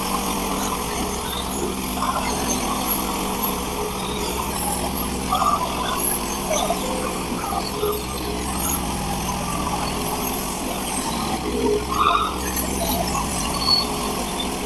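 Hudson Patriot band sawmill running steadily, its engine holding an even pitch while the mill saws thin siding boards.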